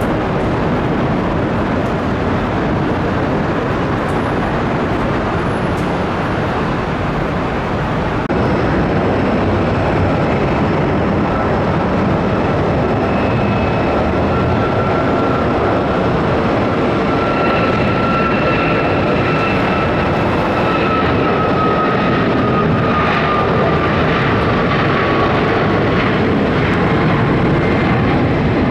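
Jet aircraft engines at take-off power: a loud, steady roar that steps up about eight seconds in. A faint whine rides on top and slowly falls in pitch over the second half.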